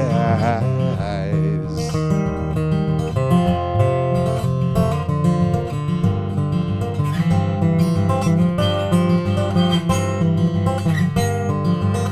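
Acoustic guitar strummed in a steady rhythm through an instrumental passage of a folk song, the last held sung note fading out in the first two seconds.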